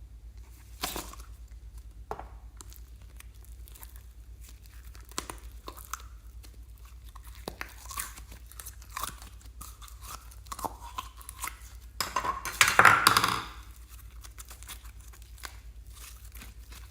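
Slime being squished and worked by hand, giving scattered sticky pops and clicks, with a louder, denser stretch of squishing about twelve seconds in that lasts a second or so.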